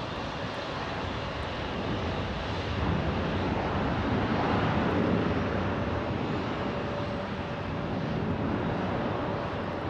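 Jet airliner's engines just after touchdown on landing. A rushing noise swells to its loudest about halfway through, then eases off, with a steady whine from midway on.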